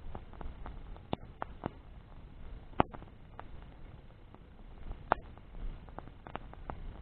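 Wood fire crackling: irregular sharp pops and snaps, with two louder ones about a third and two-thirds of the way through, over a faint low rumble.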